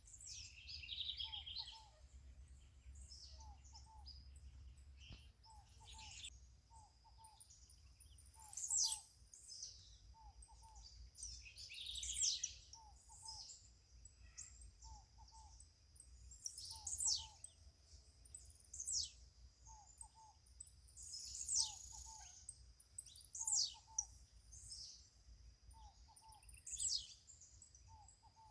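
Birds chirping and calling, with sharp high notes that sweep downward every second or two. Underneath runs a softer low double note repeating about once a second, with a faint steady high hum and a low rumble.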